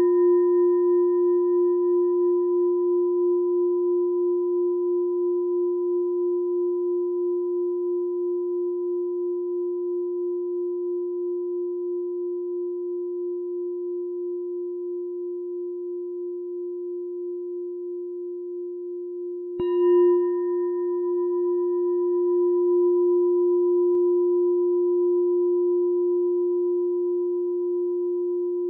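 Meditation bell struck and left to ring, a low steady tone with higher overtones that dies away slowly with a gentle pulsing waver. It is struck again about twenty seconds in and rings on.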